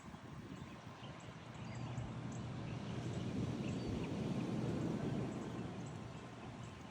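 Outdoor ambience: faint, scattered bird chirps over a low rumbling noise that swells about two seconds in and eases off near the end.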